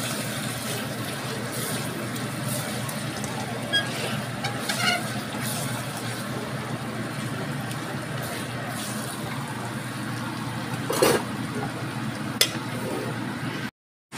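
Chili paste and fried eggs sizzling gently in a wok over a low flame, with a few spatula scrapes and knocks against the wok, the loudest about eleven seconds in. The sound drops out briefly near the end.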